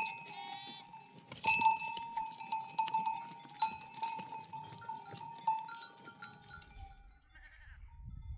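Sheep bells clanking and ringing as the flock moves, with a strike every second or two, each one ringing on. They fade out about six seconds in, and a low rumble comes in near the end.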